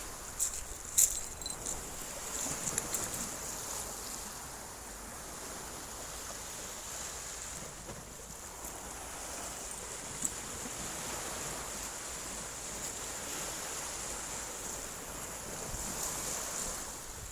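Small waves washing on a shallow beach: a steady rushing that swells and eases every few seconds.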